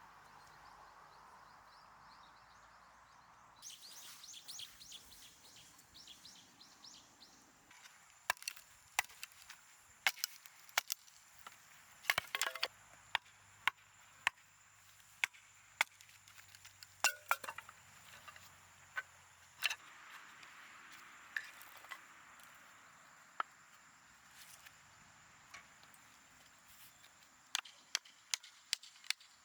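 A series of sharp, irregular knocks, struck by hand at an uneven pace with some quick clusters, starting about a quarter of the way in.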